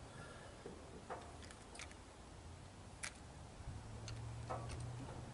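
Faint, scattered sharp clicks and light taps, a few seconds apart, over a low hum.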